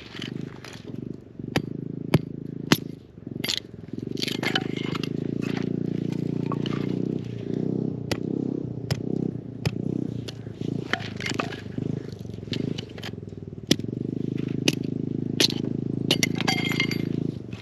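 Wood fire crackling with sharp, irregular pops and snaps, over a steady low rumble.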